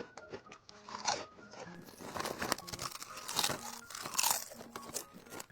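Potato chips crunched and chewed close to the microphone, many irregular crisp crunches.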